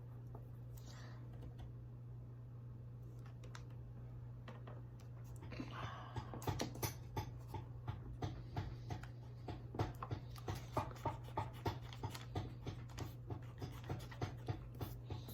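Drawing strokes scratching on paper, quick and repeated about two or three times a second from about five seconds in, over a steady low hum.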